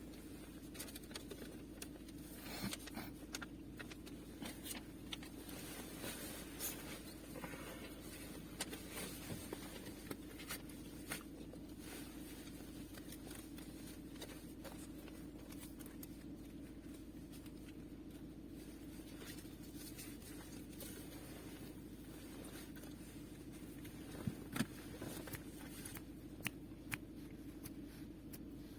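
A vehicle running with a steady low drone, with scattered light clicks and knocks, a few sharper ones near the end.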